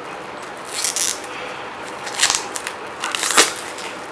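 Cardboard and plastic packaging of a card deck being opened by hand: three short scraping, crinkling noises, the last and loudest near the end.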